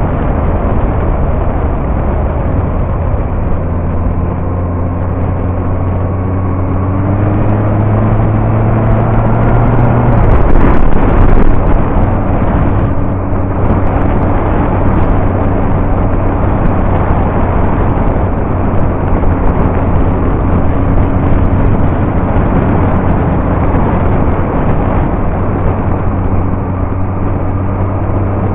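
Yamaha R1 inline-four sport bike engine running while riding, its pitch climbing steadily under acceleration, then dropping sharply about ten seconds in and holding steady at a cruise.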